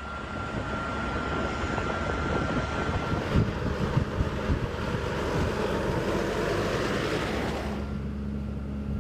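Jet aircraft engine noise: a steady rushing that swells from about three seconds in and drops off abruptly near the end, with wind buffeting the microphone.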